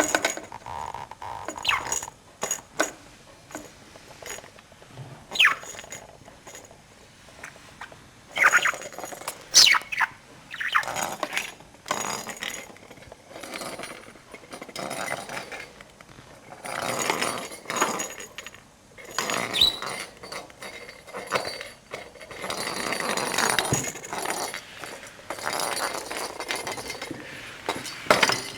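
Pet budgerigar chattering, with quick chirps and warbling calls, mixed with small clicks and clinks.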